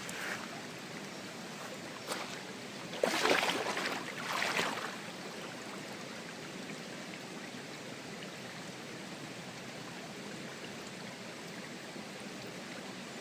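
Steady rush of a flowing stream. A few brief, louder noises cut in about two seconds in and again between three and five seconds.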